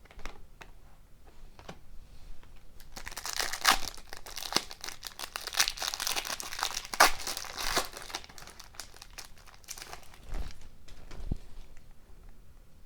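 A trading card pack's wrapper crinkling and tearing as it is opened, loudest for several seconds in the middle, among light clicks of cards being handled.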